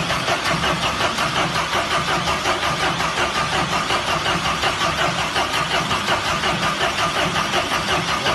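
Freshly overhauled Mercedes engine, run on the floor out of the car, turning over steadily with an even pulsing beat.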